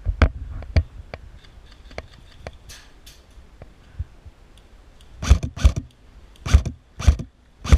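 A series of sharp knocks and clicks. A few are scattered through the first seconds, then a cluster of louder ones comes near the end.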